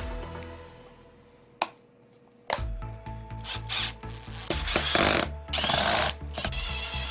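Tim & Brown 900S cordless hammer drill running in three short bursts in the second half, with a whine on top, after its repair. Background music with a steady beat plays underneath.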